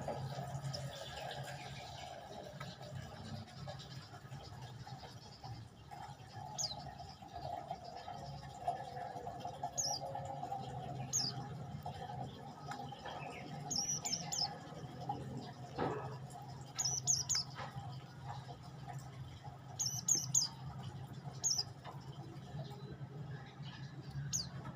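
Prenjak lumut songbird calling: short, high, sharp chirps, some single and some in quick runs of two or three, over a steady low background hum.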